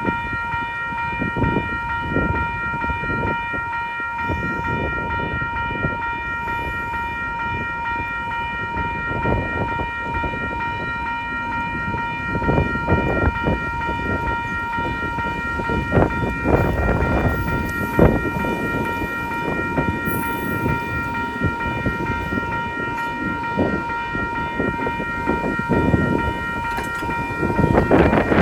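A train passing in strong, gusting wind that buffets the microphone, under a steady high ringing tone held throughout.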